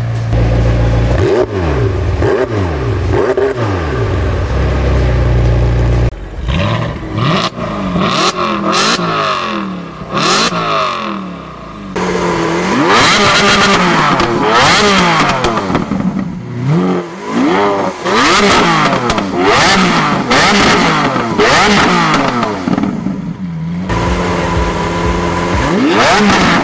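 Supercar engines revving hard again and again, each blip climbing steeply in pitch and falling back, about once a second in the busiest stretch. The sound changes abruptly three times, as separate clips are cut together.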